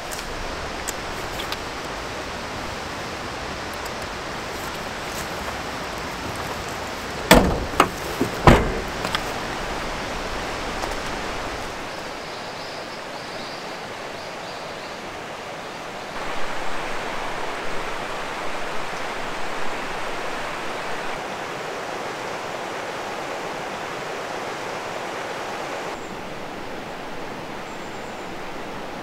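Mountain stream water rushing steadily, with two loud knocks a little over seven and eight seconds in.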